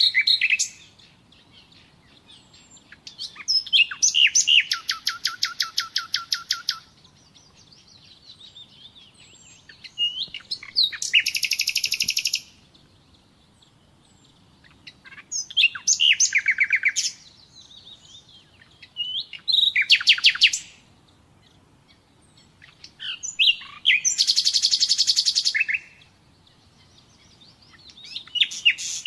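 Common nightingale singing: short phrases of fast repeated notes and rapid trills, about six phrases of one to three seconds each, separated by pauses of a few seconds.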